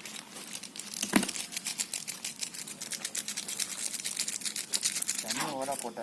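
Dense, fast crackling from Maggi noodles cooking in a pot over a wood fire, with one sharper click about a second in.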